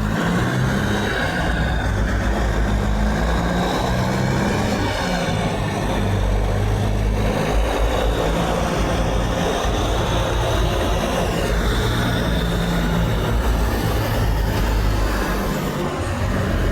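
Semi-truck engines running steadily in road traffic, with no horn sounding.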